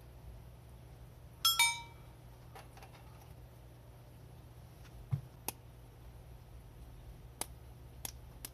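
Two sharp clinks of hard objects with a brief ringing about a second and a half in, followed by scattered light clicks and ticks and a soft low thump about five seconds in.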